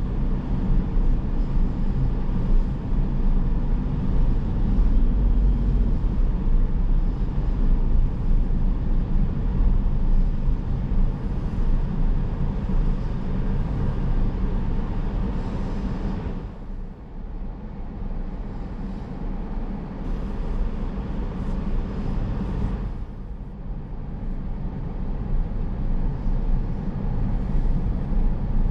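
Car driving: a steady low rumble of tyres and engine that drops away briefly about two-thirds of the way through, and again a few seconds later.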